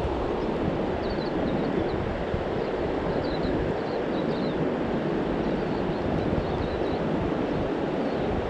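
Steady rush of a flowing trout river, with faint short high chirps scattered throughout.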